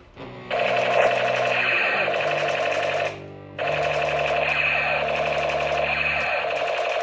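Battery-powered toy's electronic sound effect, a loud buzzing in two long bursts with a short break near the middle, over steady low background music.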